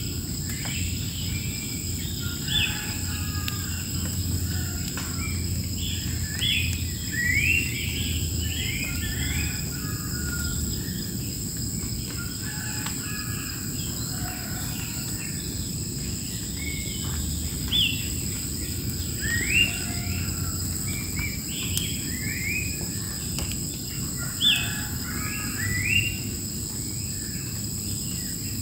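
Wild birds chirping in a rapid series of short, rising notes over a steady high-pitched insect drone.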